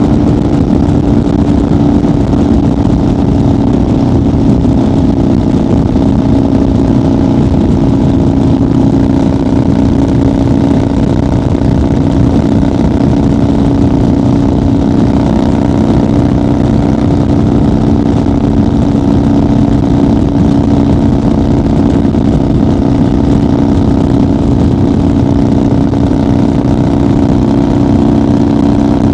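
1990 Harley-Davidson FXR's Evolution V-twin running at a steady highway cruise, its exhaust note holding an even pitch with no shifting or revving.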